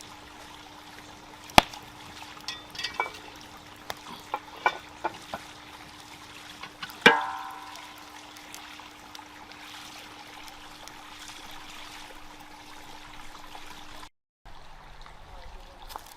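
Light clinks and knocks of metal cookware, then one loud ringing metal clang about seven seconds in, over a faint steady hum and a low liquid-like hiss.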